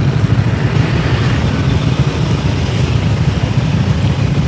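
Motorcycle riding through city traffic, heard from the pillion seat: a steady rumble of engine and road noise mixed with wind buffeting the microphone.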